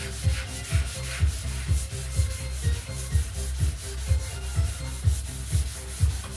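180-grit wet sandpaper rubbing over the primed fiberglass hull of a boat, a continuous rasping scrub. Background music with a steady beat plays under it.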